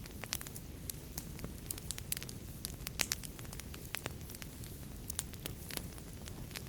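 Wood fire in a fireplace crackling, with irregular sharp pops over a low steady rumble of the flames; the loudest pop comes about halfway through.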